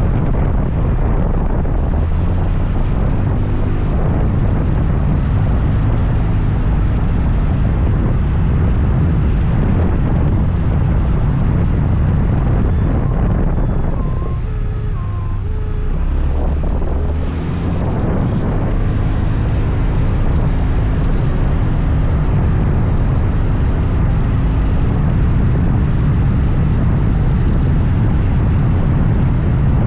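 Wind rushing over the rider's microphone along with the scooter's engine and road noise, a steady low rumble while riding. The rush dips for a couple of seconds about halfway through before picking up again.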